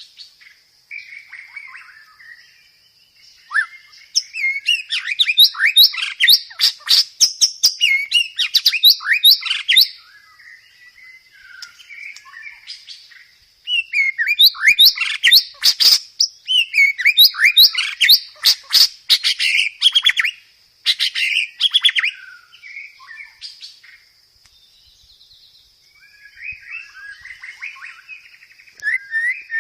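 White-rumped shama singing in loud bursts of rapid chirps, whistles and trills, with quieter stretches in between, over a steady faint high-pitched hiss.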